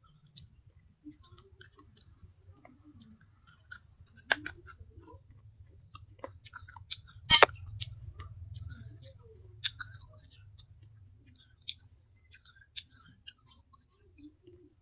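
Close-up chewing and crunching of hard pieces of baked clay pot, with scattered small cracks, a sharper crunch about four seconds in and the loudest crunch about seven seconds in.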